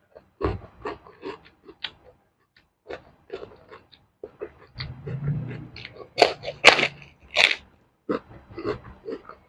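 Close-miked eating: a mouth chewing crisp raw vegetables with many small wet crunches, then three loud crunching bites a little past the middle. A low hummed "mm" is heard just before them.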